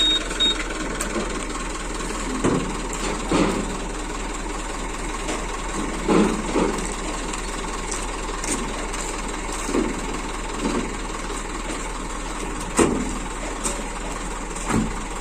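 Truck engine idling steadily, with a few short, louder sounds breaking in now and then.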